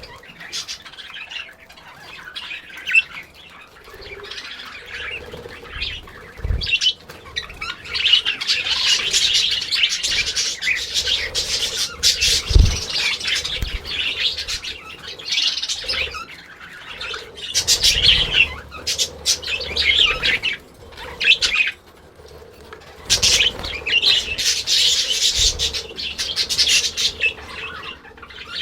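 Pet budgerigars chattering and warbling in long runs broken by short pauses, with a few low thumps now and then.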